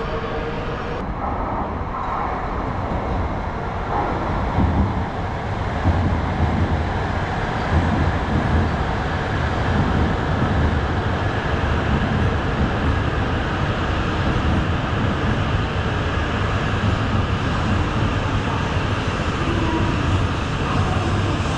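Shinkansen bullet train running, a continuous rumble and rush that builds about four to six seconds in and then holds steady.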